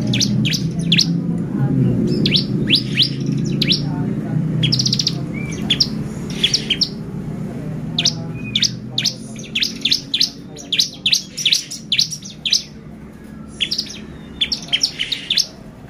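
Bar-winged prinia (ciblek) singing: bursts of rapid, sharp, high chirps, with a low hum underneath that fades out over the first half.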